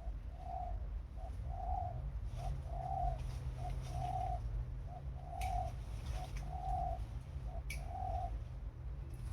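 A bird calling in a steady, repeated two-part phrase, a short note followed by a longer, even note, about six times. Two sharp clicks come near the middle and toward the end.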